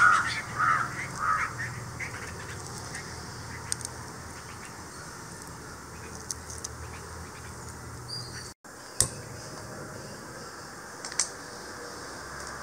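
A bird gives a quick run of harsh calls over the first second or so, then faint outdoor background with a few isolated soft clicks.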